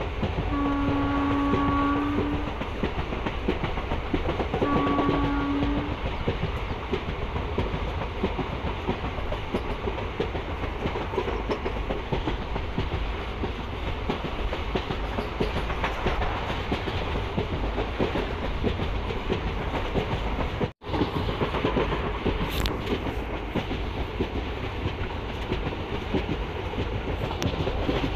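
Passenger train running along the line, heard from aboard a coach: steady rumble and rail clatter. The locomotive's horn sounds twice near the start, a long blast of about two seconds, then a shorter one. The sound cuts out for an instant about two-thirds of the way through.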